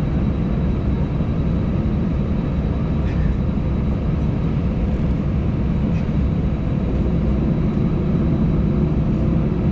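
Steady low rumble of an Airbus A320 cabin with the jet engines idling and the air system running while the airliner waits on the ground.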